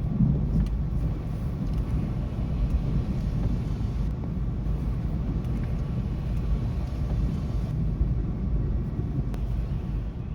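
Low rolling rumble of thunder, loudest at the start and slowly dying away over about ten seconds.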